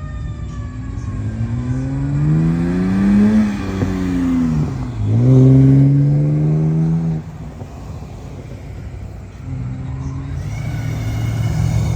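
A car engine revving: its pitch climbs for a couple of seconds, sinks, then jumps up again and holds before the throttle drops off about seven seconds in. The engine builds up again near the end.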